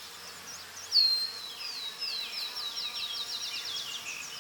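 A small songbird singing a rapid series of down-slurred chirps that starts about a second in, over the faint buzzing of bees.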